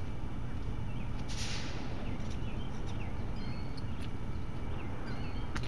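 Small birds chirping in short calls over a steady low rumble, with a brief hiss about a second and a half in and a few sharp clicks near the end.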